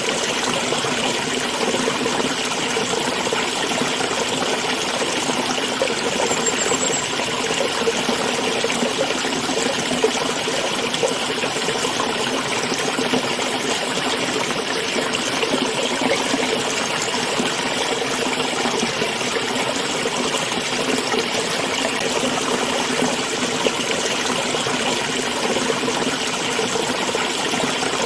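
Small stream flowing and trickling steadily.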